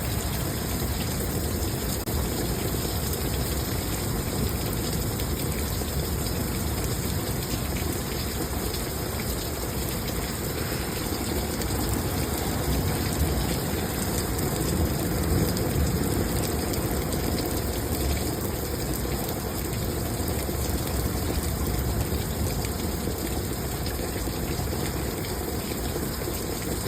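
Heavy thunderstorm rain pouring down, an even, unbroken hiss of falling and running water.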